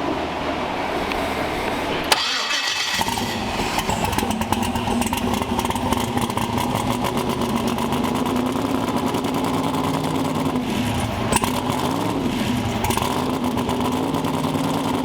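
5.3-litre LS V8 in a twin-turbo Chevy Vega catching about three seconds in and running roughly with an uneven, ticking note. It only keeps running with the throttle held open: closed, it won't idle.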